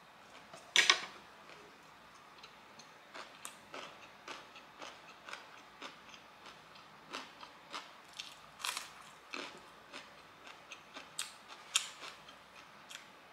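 Close-miked chewing of a mouthful of spicy instant fire noodles: irregular soft wet mouth clicks and smacks, with a louder smack about a second in.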